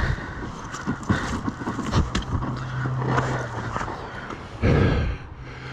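Dirt bike engine running low amid scraping and knocking in slippery mud, as the bike goes down and is handled, with a louder burst of noise near the end.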